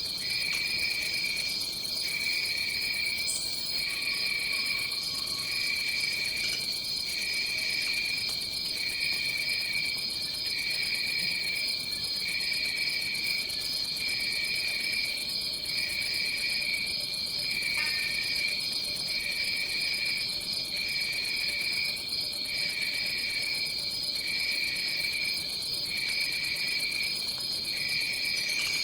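Tropical rainforest insects calling: a steady high-pitched drone, with a lower insect chorus pulsing in even beats a little over a second apart.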